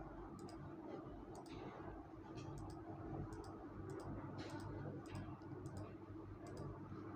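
Eating sounds during a meal of soup: a string of small, sharp mouth and chewing clicks at irregular spacing, somewhat under two a second, over a steady low hum.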